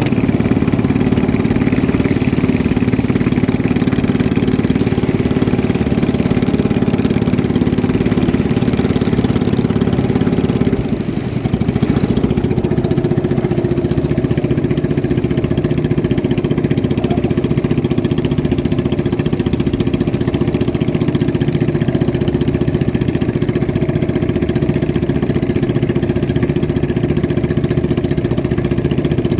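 Boat engine running steadily under power. After a brief dip about eleven seconds in, it settles into a different steady note.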